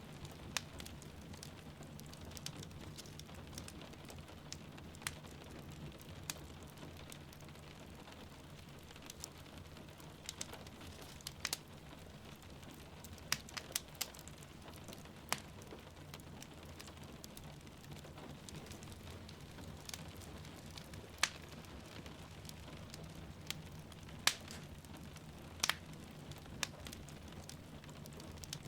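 Wood fire crackling in a fireplace with irregular sharp pops, over the steady hiss of rain falling.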